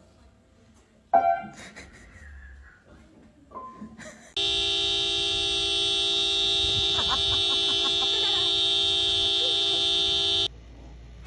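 A loud, steady horn-like tone held for about six seconds that starts and cuts off abruptly. It is preceded by a short tone about a second in that dies away quickly.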